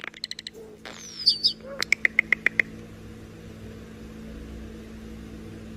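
Starling mimicking: a few quick clicks, a falling whistle, then a run of about six short, evenly spaced beeps at one pitch, like an electronic device. A faint steady hum is left after that.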